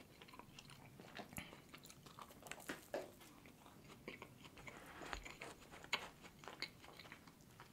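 Faint chewing of a soft cream-filled doughnut, with scattered small wet mouth clicks and a few slightly louder ones.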